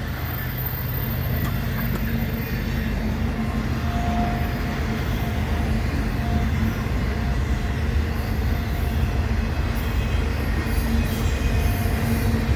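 BNSF westbound intermodal freight train rolling past on the climb toward the Summit: a steady heavy rumble of wheels on rail with a low droning hum, and a faint thin squeal about four seconds in.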